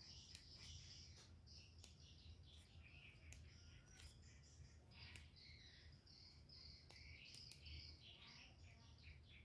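Faint birdsong: several birds chirping and warbling in overlapping short phrases, over a steady low hum.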